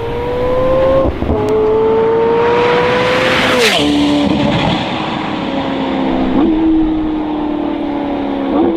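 McLaren 720S twin-turbo V8 with a Novitec exhaust accelerating hard. The note climbs in pitch, drops at an upshift about a second in and climbs again. It peaks loudest around three and a half seconds as the car sweeps past, then falls to a lower, slowly sinking note with two short blips near the end.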